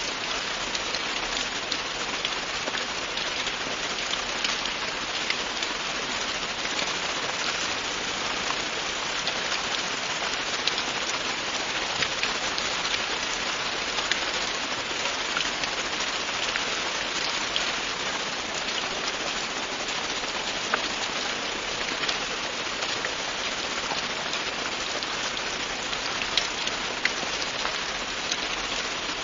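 Steady, continuous rain falling on a surface, an even hiss with scattered individual drop ticks.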